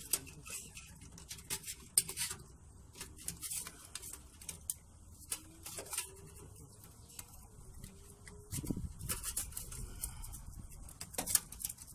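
Scattered small clicks and knocks of hands and tools working inside a gas furnace to take out its igniter, with a louder low thump about nine seconds in.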